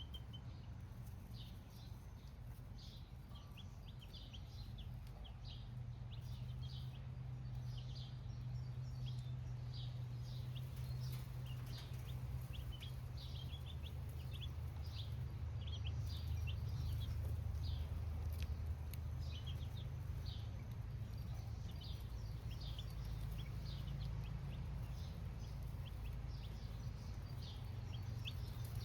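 Baby chicks cheeping: many short, high peeps in quick succession, over a low steady hum.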